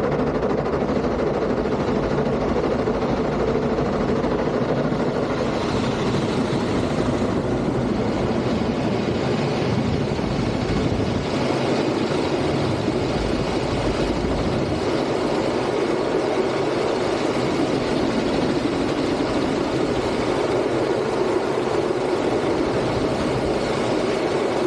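Automatic car wash machinery running: a loud, steady noise without pauses.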